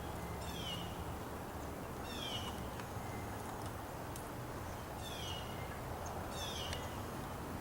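Birds in a flock calling: a short, falling, slightly harsh call heard four times, spaced a second and a half to three seconds apart.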